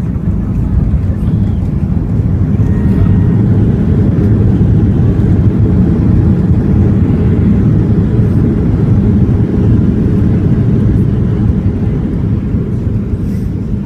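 Boeing 737-700's CFM56 engines and airframe heard inside the cabin during landing: a loud, steady low rumble, at its strongest through the middle and easing slightly near the end.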